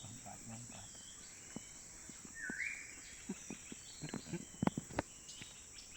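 Outdoor tropical ambience: a steady high-pitched insect drone, cicadas or crickets, with scattered short bird chirps and whistles, one rising note about halfway through. A few sharp clicks come about two-thirds of the way in and are the loudest sounds.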